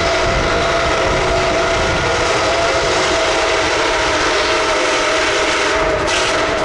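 A train rolling steadily past at close range, with a continuous rumble and steady high ringing tones from the wheels on the rails. Wind buffets the microphone.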